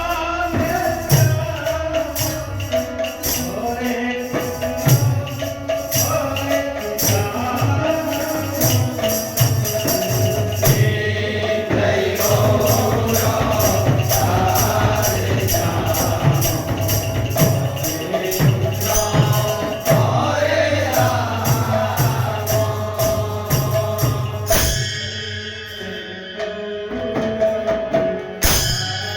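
Kirtan devotional music: voices chanting over a steady held tone, a regular drum beat and jingling small cymbals. The cymbals drop out about four seconds before the end, then come back.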